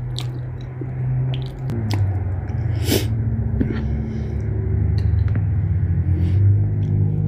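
Close-miked eating: chewing, with spoon clicks and small knocks on the dish, over a low steady hum that drops in pitch about two seconds in.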